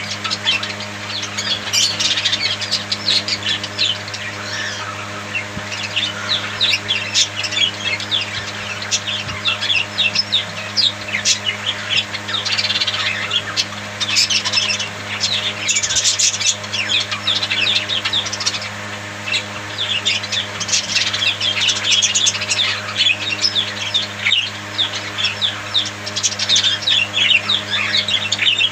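A group of budgerigars chattering continuously, a dense stream of short chirps and warbles with occasional squawks.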